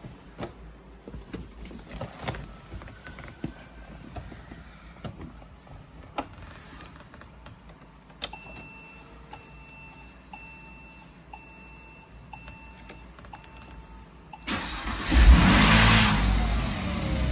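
Clicks and knocks, then a dashboard warning chime beeping about twice a second. Near the end the 1997 Porsche Boxster's 2.5-litre flat-six is cold-started: a brief crank, then it catches with a loud flare of revs and begins to settle toward a fast idle.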